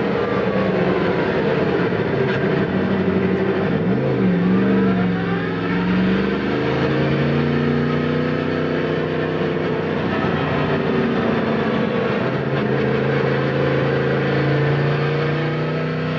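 Yamaha MT-10 SP's crossplane inline-four running through an Akrapovic titanium slip-on exhaust while riding. Its pitch dips and rises about four seconds in, then holds steady at a lower pitch.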